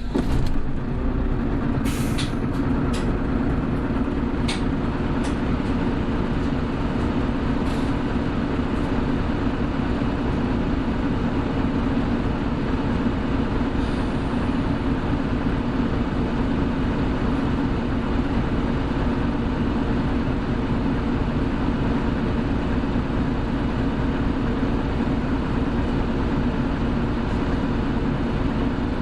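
Hino Blue Ribbon City hybrid bus heard from inside the cabin, its engine and drivetrain running with a steady hum that comes in suddenly at the start. A few sharp clicks sound in the first eight seconds.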